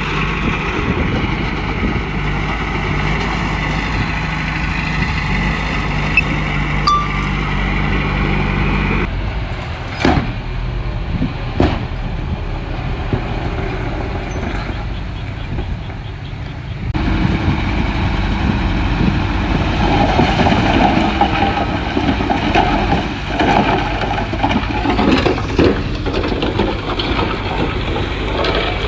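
Diesel engines of heavy earthmoving machinery running steadily, with a couple of sharp knocks in the middle. The whole sound changes abruptly twice, as the footage cuts between machines.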